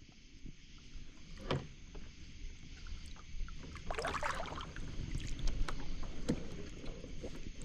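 Knocks and bumps against a kayak hull, with a short splash about four seconds in, as a large blue catfish is landed and handled.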